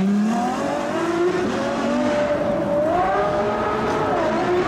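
Supercar engine accelerating hard, its pitch climbing, then running high with small dips and rises.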